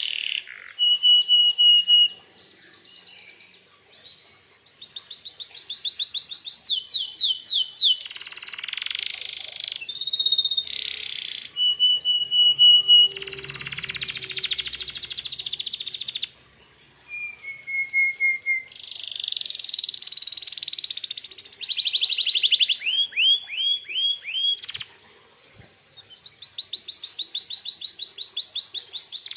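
Male canary singing a long, varied song: fast trills, held whistled notes and repeated down-sweeping notes, with short pauses between phrases.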